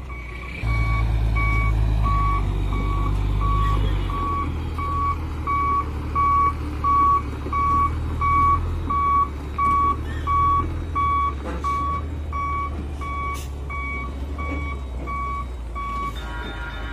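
Truck's reversing alarm beeping steadily, about one and a half beeps a second, over a truck engine's low running, which is louder for the first few seconds.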